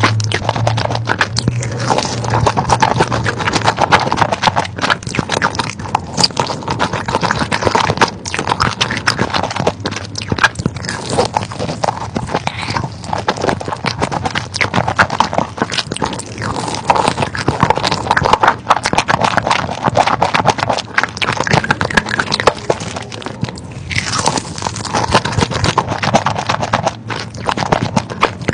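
Close-up eating sounds of a person biting and chewing chicken, with dense irregular crunching and crackling throughout.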